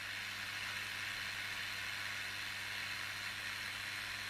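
Steady hiss with a faint low hum underneath, holding level throughout.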